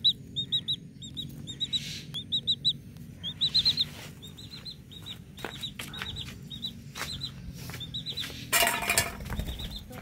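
High bird chirps in quick runs of two to four, repeating throughout. Near the end comes a brief flurry of wing flaps as the Javan myna takes off.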